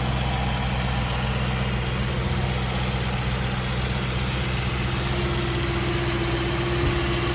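Ford Thunderbird engine idling steadily, still warming up after a cold start. A steady higher tone joins the idle about five seconds in.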